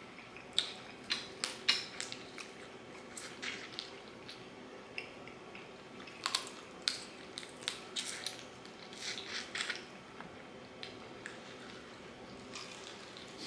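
Close-miked chewing and crunching of crispy homemade fried chicken: irregular crackly bites and mouth clicks, bunched in clusters, over a steady low room hum.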